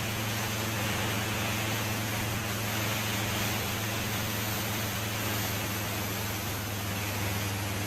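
Harley-Davidson Fat Boy's V-twin engine running at a steady cruise, a low even drone under a heavy rush of wind noise on the helmet or bike camera microphone.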